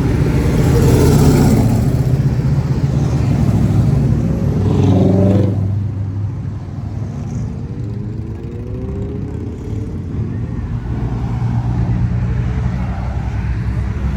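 Classic cars cruising past with engines running, loudest in the first five seconds; partway through, one car's engine climbs in pitch as it accelerates.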